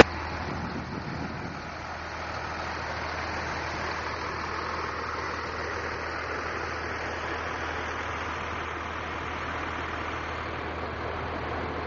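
Steady vehicle engine noise, like an engine idling, with an even hiss and a low steady hum and no sudden sounds.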